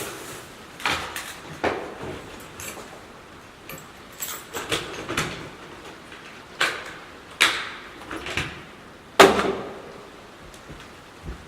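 A series of irregular knocks and bangs, about ten spread over the stretch, the loudest about nine seconds in.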